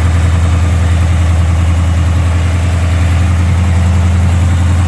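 Built small-block Chevy V8, fitted with headers, idling steadily.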